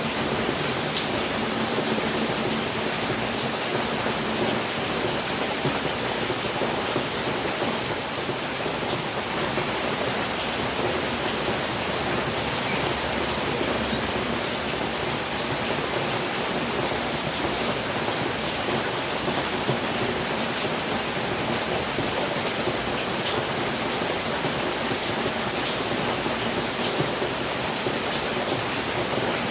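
Steady rain falling on a house roof, an even wash of noise with scattered faint light ticks and one slightly louder tap about eight seconds in.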